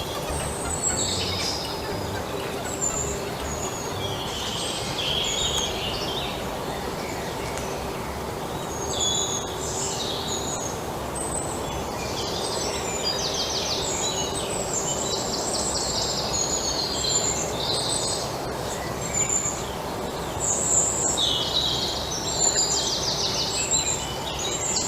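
Birds chirping, many short high calls and quick trills, scattered over a steady background hiss.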